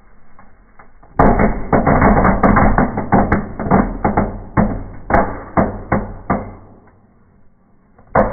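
Small fireworks burning in a fireplace, crackling in a dense run of rapid pops from about a second in, thinning to separate pops after about five seconds, with one more sharp pop near the end.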